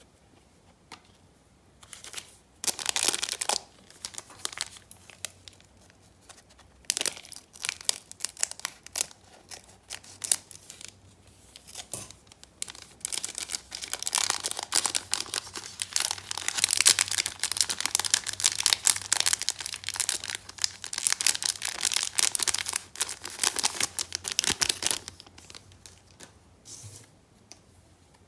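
Crinkly trading-card pack wrapper being torn open and crumpled by hand. It comes in short bursts of tearing and rustling, then runs busily for about ten seconds before it stops.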